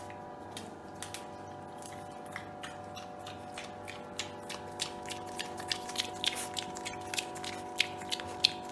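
An animal chewing food: irregular small clicks and crunches that come more often in the second half, over a faint steady hum.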